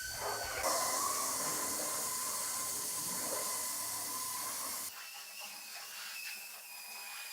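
A steady hiss that starts abruptly about a second in and cuts off sharply about five seconds in, with a faint steady tone beneath it. Quieter faint clicks follow.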